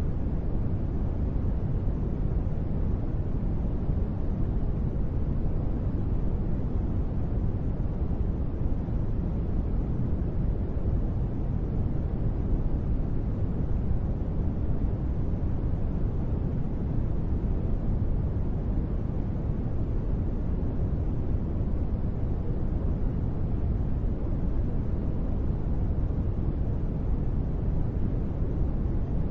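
Steady, deep white noise of a sleep track sold as gentle rain: an even, low-pitched wash with no separate drops, no thunder and no changes.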